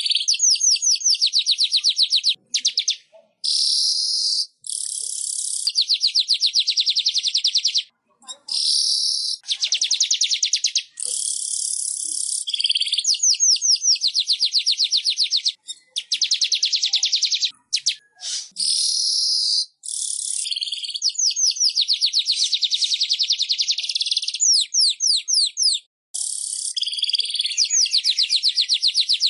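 Weaver (burung manyar) song: phrase after phrase of fast, buzzy ticking trills and sizzling chatters, high-pitched, each lasting a second or two with short breaks between.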